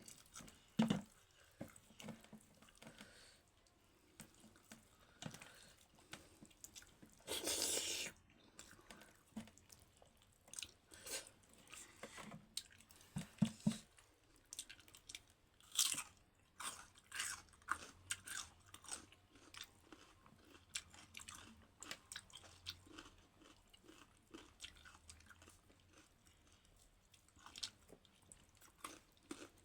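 Close-up chewing and crunching of a meal of dhido and chicken, with many short wet mouth clicks and crackles. About seven seconds in, a louder hiss lasts about a second.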